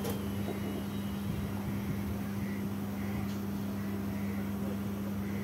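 Steady low hum of a standing passenger train, with one constant droning tone and no change in level.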